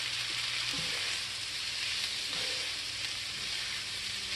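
Steady sizzle of chorizo, steak, bacon bits and onions frying in a hot cast iron skillet as more oil goes in, with a slotted spatula stirring and scraping through the mix near the end.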